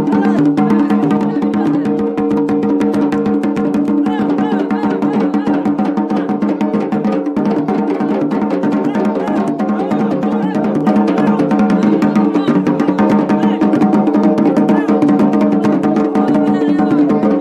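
Traditional Yemeni wedding drumming on tubul and marafa drums, a fast, dense beat that never stops, over a steady held tone.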